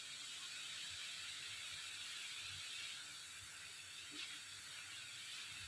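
Grated carrots sizzling faintly and steadily in a pan while being stirred with a spatula, their water cooked off.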